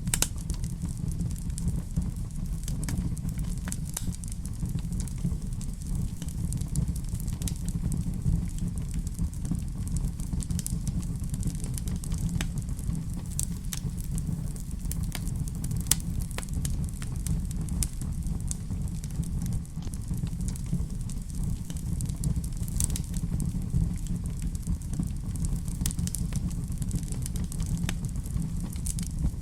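Wood fire crackling in a fireplace: scattered small pops and crackles over a steady low rumble, with one louder pop about halfway through.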